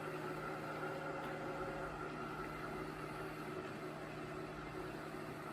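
ECOVACS DEEBOT X9 Pro Omni robot vacuum running, a steady motor hum and rush of air with a faint held whine, unchanging throughout.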